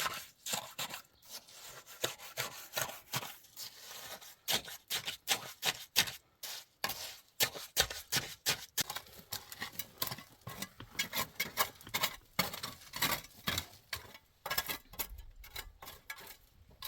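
Quick, repeated scraping strokes of a hand tool against a hard surface, several a second with short pauses, like sawing or rasping.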